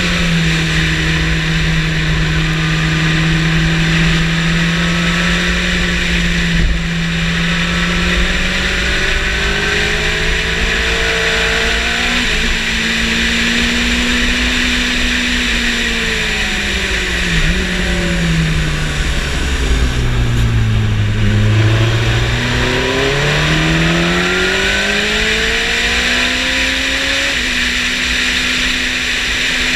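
Yamaha sport motorcycle engine under way on a race track, recorded onboard with wind rush. The engine note holds high, falls in steps to its lowest about two-thirds through as the bike slows for a corner, then climbs again in rising sweeps as it accelerates out through the gears.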